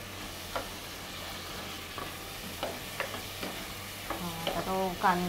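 Chopped onion and tomato sizzling in coconut oil in a kadai while being stirred with a ladle. There is a steady sizzle with scattered short scrapes and clinks of the ladle against the pan.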